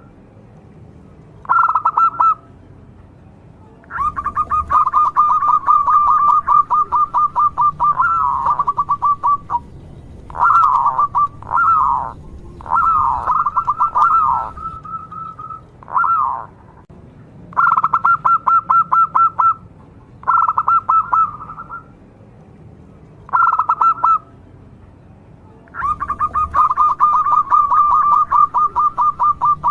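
Zebra dove (perkutut) cooing in repeated phrases of rapid, stuttering notes held near one pitch, with short pauses between phrases. Some phrases are brief and others run on for several seconds.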